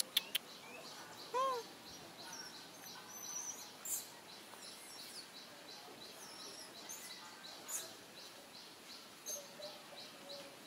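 Outdoor ambience of a bird chirping steadily, short high chirps about three a second. A single short rising-and-falling call comes about a second and a half in, and there are a few sharp clicks.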